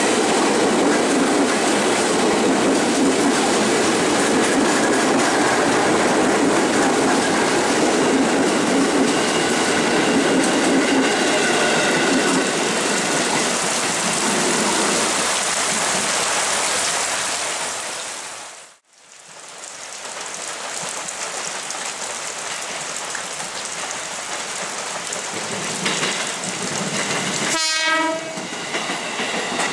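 KRL Commuter Line electric train passing, wheels running over the rail joints with a faint motor whine, in heavy rain; the sound drops out suddenly about two-thirds through. After it the rain continues steadily and a train horn sounds briefly near the end.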